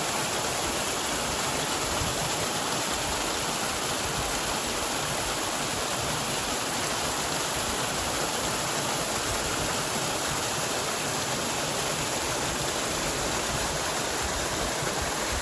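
Waterfall pouring in a steady, even rush of water.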